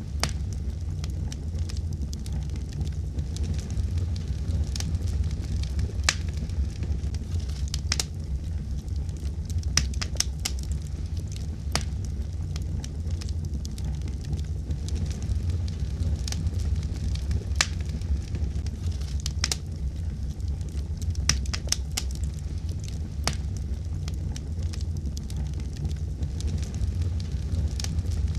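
Wood fire burning in a fireplace: irregular sharp crackles and pops, sometimes several in quick succession, over a steady low rumble of the flames.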